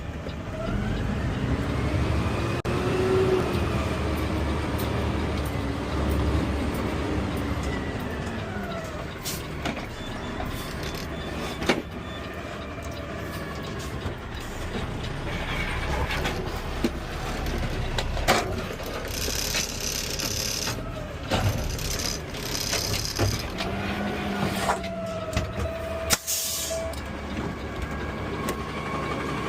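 Heavy garbage truck's engine running, heard from the cab, its pitch rising and falling as the truck speeds up and slows through the first several seconds. Scattered knocks and clunks follow, then a hiss of air from the brakes about two-thirds of the way in.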